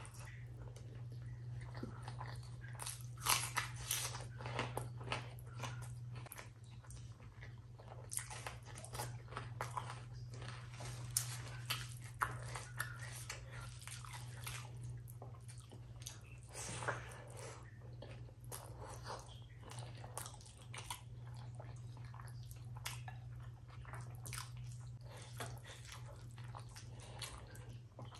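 Close-miked wet chewing, lip smacks and biting of a person eating rice, mashed potato and dal with the hand, with squishing as the fingers mix and squeeze rice, over a steady low hum.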